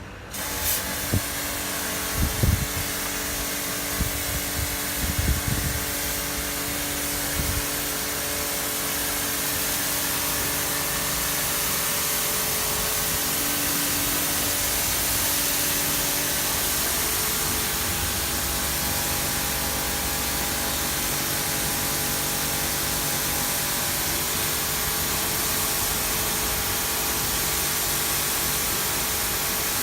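Pressure washer running and spraying, a steady hiss of the high-pressure water jet over the hum of its pump motor, starting about half a second in. A few low thumps come in the first several seconds.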